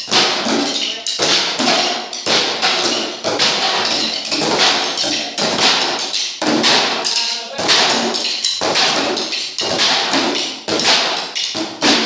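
A group playing percussion together, drumming a steady repeating rhythm at a slow, even tempo with a loud stroke about once a second and lighter hits between.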